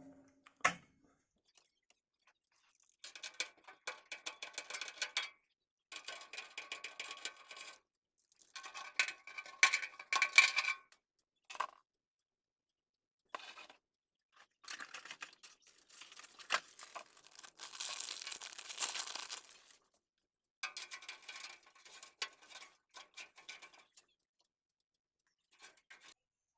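Hands handling PC parts or packaging: a series of short crinkling, crackling and clicking bursts, each lasting a second or two, with one longer, brighter rustle about two-thirds of the way through.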